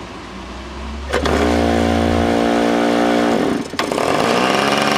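OS .46AX two-stroke glow engine being spun by an electric starter for about two seconds, then a sharp knock as the engine kicks back near the end, after which it catches and runs, turning backwards.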